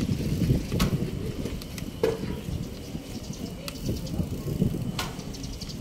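Street traffic noise: a steady low rumble of passing vehicles, with scattered light clicks and knocks.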